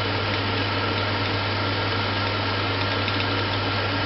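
Kitchen range hood fan running with a steady low hum and an even hiss.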